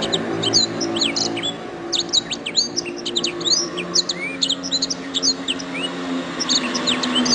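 Domestic canary singing: a fast run of short chirps and sweeping whistled notes, with a brief pause about six seconds in. A low steady hum runs underneath.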